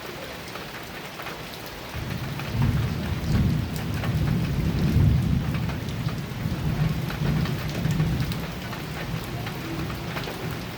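Heavy rain pattering on a metal roof, with a long roll of thunder that breaks in about two seconds in and rumbles on, swelling and easing, to near the end.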